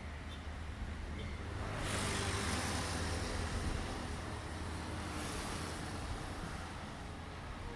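Low, steady engine hum with a rushing swell of vehicle noise from about two seconds in, fading after four seconds, and a shorter swell near five seconds.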